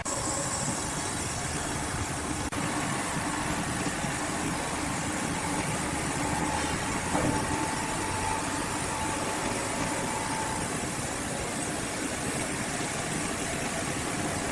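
Sawmill machinery running steadily, an engine-like hum under broad noise, with a faint thin whine for a few seconds in the middle.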